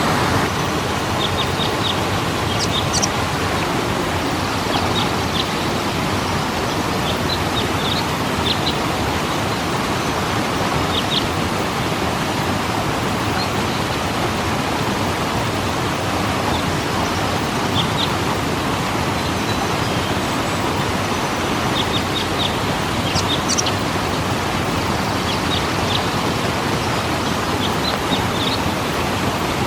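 Waterfall rushing with a steady, even roar of falling water, with short high bird chirps every few seconds.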